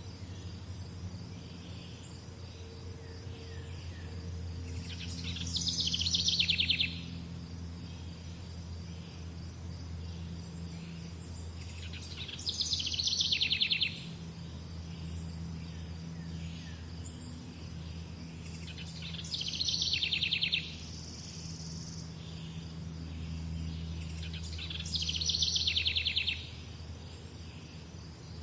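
A songbird singing the same short song four times, about every six to seven seconds: a fast trill that falls in pitch over about a second and a half. Under it runs a steady low hum, with a faint steady high chirring in the background.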